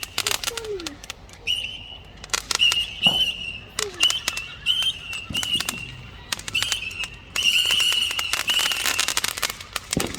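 Fireworks display: a rapid run of bangs and crackles, thickest near the end, with a high, steady whistle sounding again and again between them.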